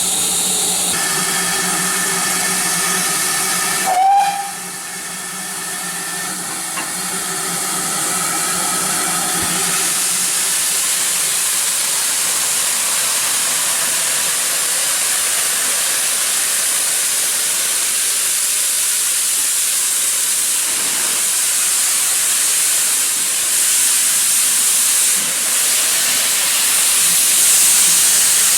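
Steam locomotive standing with steam hissing steadily. For the first ten seconds or so a steady hum runs alongside the hiss, and there is a brief sharp knock about four seconds in.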